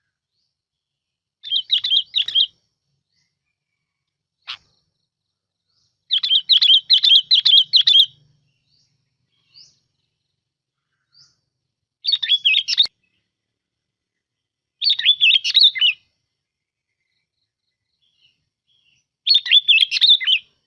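Bulbul (bông lau) song: five short, fast warbling phrases separated by pauses of a few seconds, the second the longest, as played for a lure recording.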